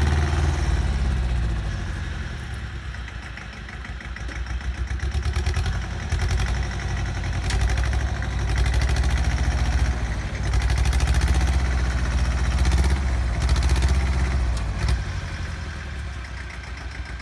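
Bolens G194 garden tractor engine running while it drags a scraper blade through a dirt mound. The engine note falls away a couple of seconds in, then comes back louder, with some clatter mixed in.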